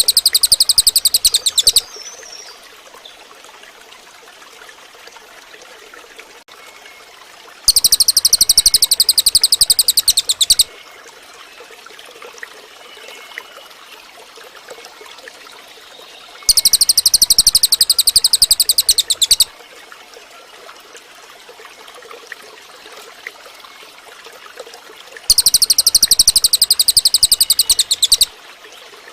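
Cililin bird singing: a loud, very fast trill of rapid repeated high notes, each run lasting about three seconds. The trill comes three times, about every nine seconds, with the end of an earlier run at the very start.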